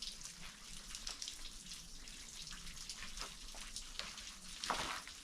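Shallow creek water trickling and babbling over rocks, full of small irregular splashes and drips, with one louder impact near the end.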